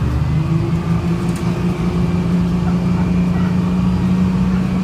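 Detroit Diesel 6V71 two-stroke diesel engine of a 1970-71 GMC New Look bus, running steadily on one even note.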